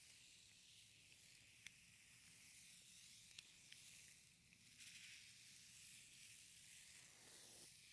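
Faint brushing through hair: a soft, airy hiss that swells and eases with the strokes, with a few small clicks.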